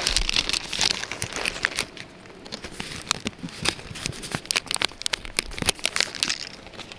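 Foil booster-pack wrapper crinkling and trading cards being handled, a run of irregular small rustles and clicks.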